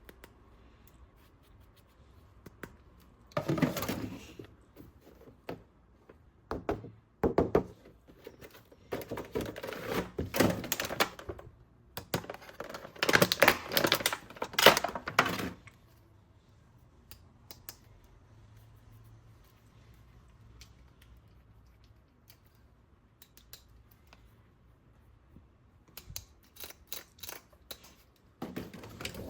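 Toys and their packaging being handled and unpacked: several bursts of rustling and scraping with knocks, then a quick run of sharp clicks near the end.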